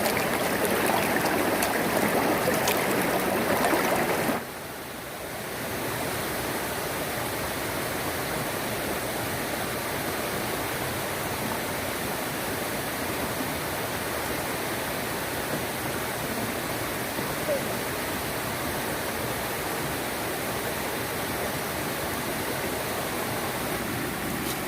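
Steady rush of running water, louder at first, then cutting sharply about four seconds in to a quieter, even rush.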